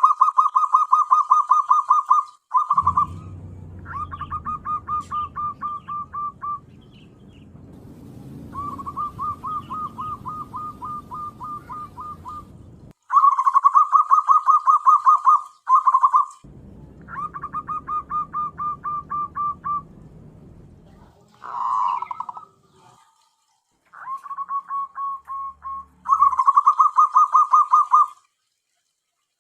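Zebra dove (perkutut) calling in a series of rapid, trilled phrases of quick repeated notes, each a few seconds long with short pauses between, as used to lure wild doves.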